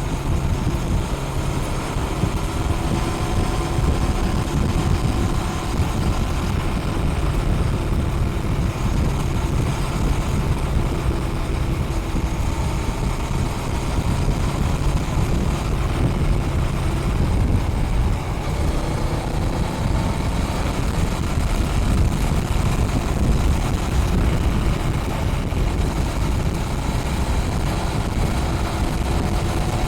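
Honda Rebel 500's parallel-twin engine through its stock exhaust while riding, running steadily with its pitch drifting slowly up and down, under heavy wind noise on the microphone.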